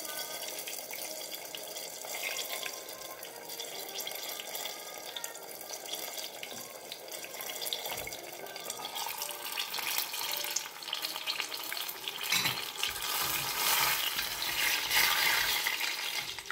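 Battered banana slices frying in hot oil in a lidded stainless steel saucepan, a steady sizzle. About eight seconds in the lid comes off and the sizzle grows louder, and near the end a utensil knocks and scrapes as the browned fritters are turned in the pot.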